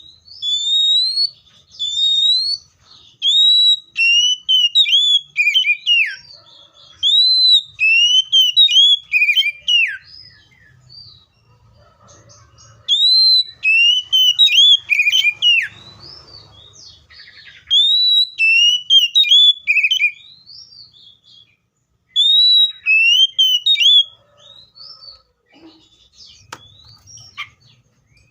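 Seychelles magpie-robin singing: loud, clear whistled phrases of quick notes that slur up and down, in bouts with two short pauses, fading to softer notes near the end.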